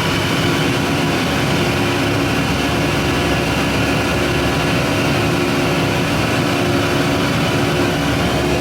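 Airliner cabin noise in flight: a loud, steady engine drone with a constant hum that does not change.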